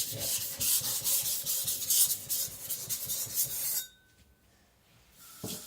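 Steel cleaver blade being ground back and forth on a coarse 400-grit Naniwa Professional whetstone to thin it, in quick repeated strokes that stop about four seconds in. Near the end a water tap starts running.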